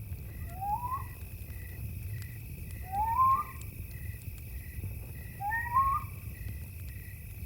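Night ambience: a wild animal gives three short rising whistled calls about two and a half seconds apart, over steady cricket chirping and a low rumble.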